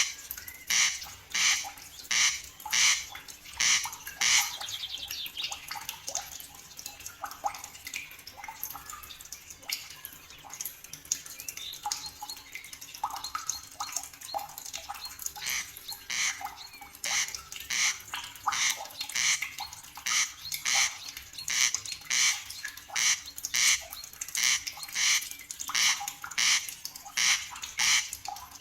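A bird repeating a short, harsh squawking call about twice a second. The calls pause for about ten seconds a few seconds in, while fainter bird calls continue, then resume steadily.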